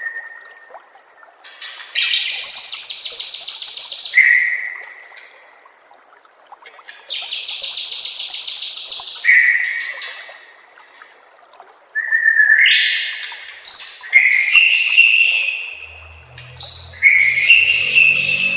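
White-rumped shama (murai batu) singing. Two loud, rapid trill phrases, each about two seconds long and ending in a lower clear whistle, come a few seconds apart; shorter varied whistled phrases follow in the second half.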